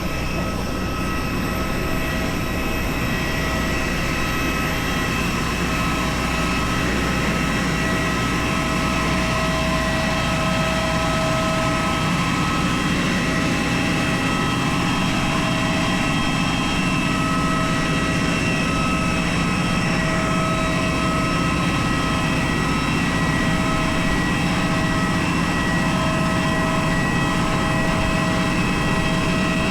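Airbus A320 airliner on the ground, making a steady rush of jet noise with several constant high whines over it, growing slightly louder over the first few seconds.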